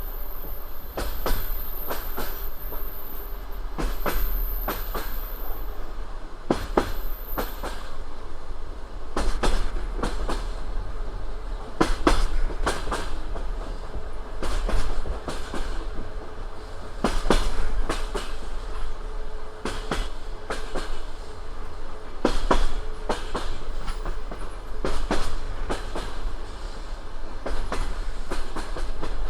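Passenger train carriage running at speed, its wheels clicking over rail joints (clickety-clack) above a steady low rumble, the clicks coming in groups every second or two.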